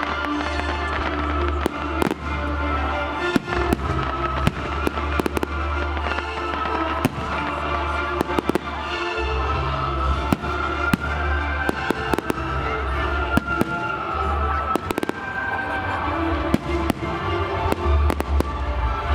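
Fireworks display: many sharp bangs and crackles going off in quick, irregular succession, over music with a heavy low bass.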